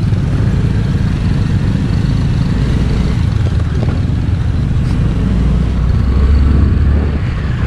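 Scooter engine running while being ridden, a steady low rumble that grows louder about six seconds in.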